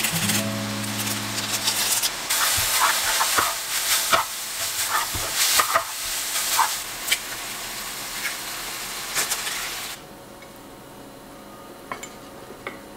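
Instant noodles sizzling as they are stir-fried in a frying pan, with a wooden spatula scraping and knocking against the pan. The frying stops about ten seconds in, leaving a quiet background.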